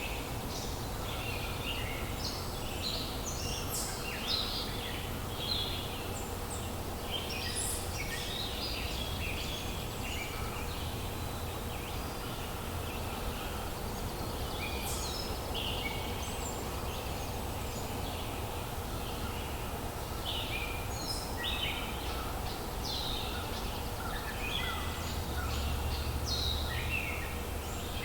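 Several songbirds singing, with short overlapping phrases and chirps throughout, over a steady low rumble of background noise.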